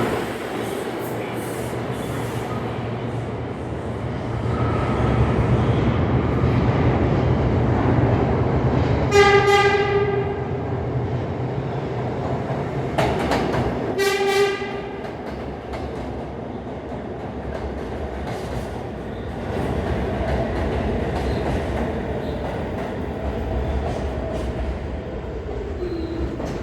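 R46 New York City subway train running on the rails with steady wheel and rail noise. It sounds its horn in two short blasts about five seconds apart.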